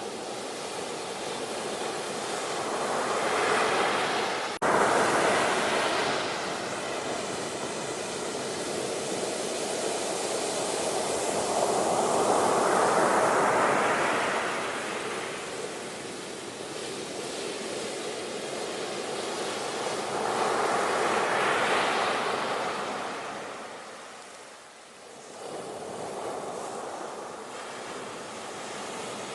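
Ocean surf: a steady rush of waves that swells and ebbs about every nine seconds, with a sudden break about four and a half seconds in.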